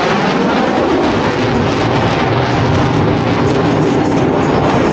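Jet engine noise from Blue Angels F/A-18 Super Hornets flying past: a loud, steady rushing noise.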